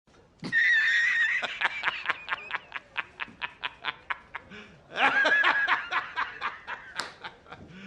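A very high-pitched laugh, twice: each time a held squeal breaking into a fast run of 'ha-ha' pulses, about five a second, that fade away.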